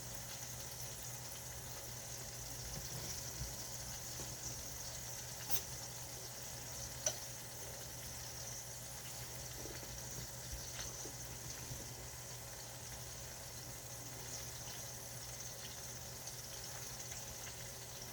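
Food cooking on a stovetop, a steady faint bubbling hiss, with two light clicks about a third of the way in.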